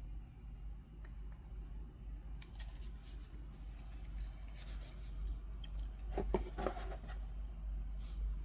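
Handling noises: light rubbing, rustling and a few small clicks, busiest about six to seven seconds in, over a steady low hum.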